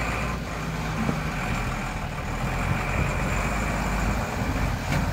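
Vehicle engine running steadily under load while the vehicle crawls across a rough, soft off-road stretch.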